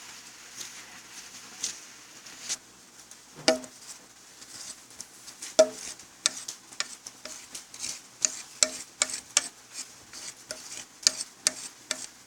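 A utensil scraping and tapping in a dish of thick brownie batter, spreading it out: irregular light clicks and scrapes, a few louder taps.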